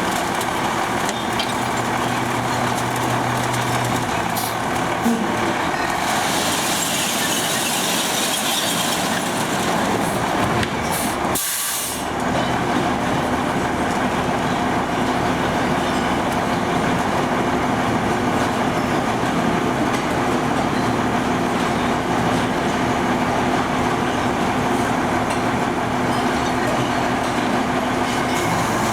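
Recycle truck engine running steadily, with a few seconds of hiss about six seconds in. The sound drops out briefly near the middle and then resumes with a steady hum.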